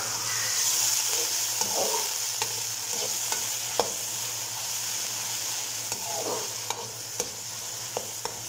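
Onions, tomato and ground garlic-ginger-chilli masala sizzling steadily in hot ghee in a metal pan while being stirred and fried (bhuna), with a metal slotted spoon clicking against the pan now and then.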